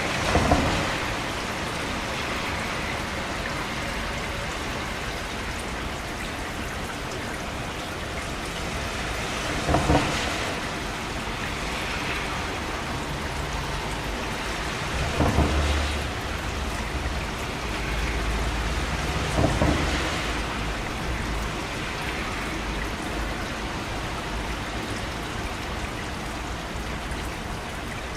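Steady rain falling, with four short, louder thuds spaced several seconds apart, the first right at the start and the last a little before two-thirds of the way through.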